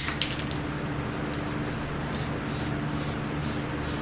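Aerosol spray-paint can hissing in short repeated bursts, about three a second, over a steady low hum.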